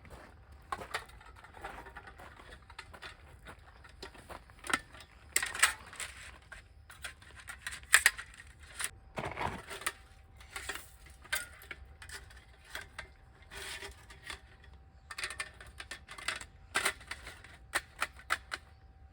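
Irregular light clicks and knocks of objects being handled, with occasional rustles.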